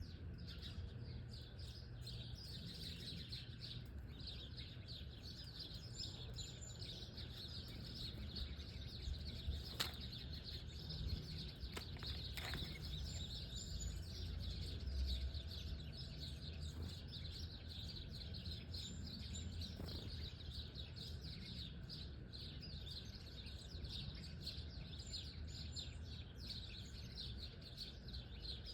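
A flock of small birds chirping continuously in a dense chatter of short, high calls over a low background rumble, with a couple of sharp clicks about ten and twelve seconds in.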